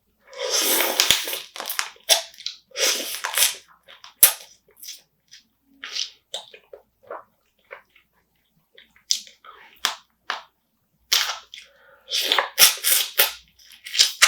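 Close-miked eating of spicy marinated raw crab: irregular wet crunching and cracking, slurping and chewing, with several sharp cracks.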